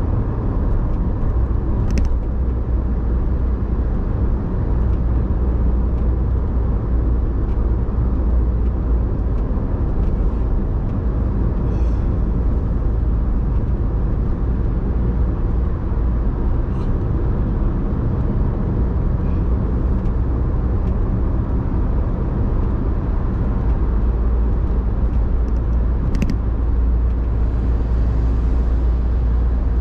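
Car driving at a steady pace: a continuous low engine and road rumble, with two short clicks, one near the start and one near the end.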